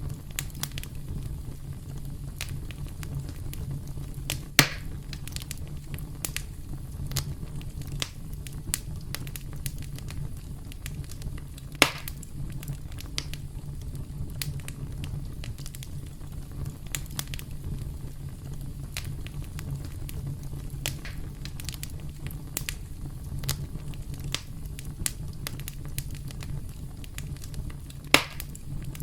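Campfire crackling: a steady low rumble of burning wood under frequent small snaps, with three louder pops, one about four and a half seconds in, one near the middle and one near the end.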